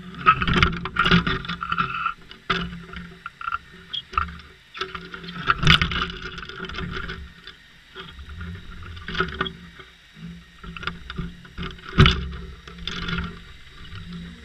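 Steady low hum of a boat's engine, with irregular knocks and bursts of rushing water; the loudest knocks come about six seconds and twelve seconds in.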